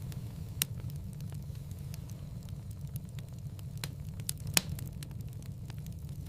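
Wood fire crackling in a fireplace: a steady low rumble of the burning fire with scattered sharp pops and crackles, one louder pop about half a second in and the loudest about four and a half seconds in.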